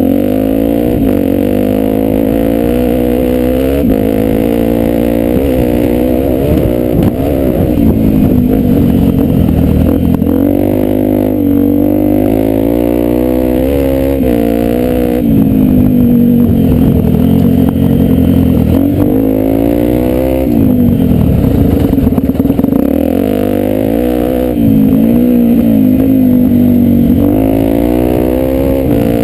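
Honda Tornado 250's single-cylinder four-stroke engine pulling a dirt bike off-road, its revs climbing and dropping again and again as the throttle is worked and gears change.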